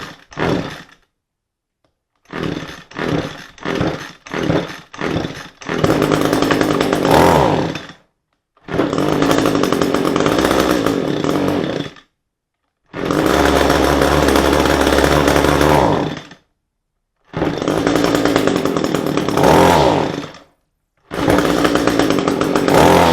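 Echo SRM-225 string trimmer's two-stroke engine: a few short sputtering bursts, then several stretches of running, each rising in pitch near its end, broken by abrupt silences. The engine is being starved of fuel, which the owner puts down to a clogged fuel tank vent making it bog.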